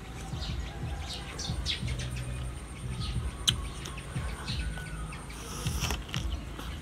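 Small birds chirping over and over in short, quickly falling notes, over an uneven low rumble. A single sharp click sounds about three and a half seconds in.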